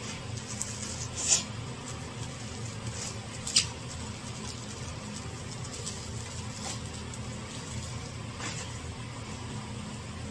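A steady low hum with two sharp clicks, about a second and three and a half seconds in, and a few fainter taps later.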